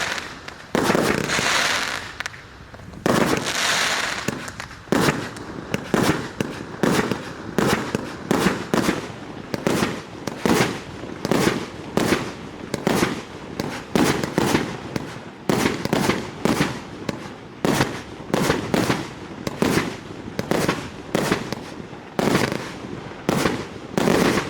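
Panda Fireworks 'Color Master' Amber Orange firework going off: three longer crackling bursts, then a steady run of sharp shots about two a second, each followed by a short fizz.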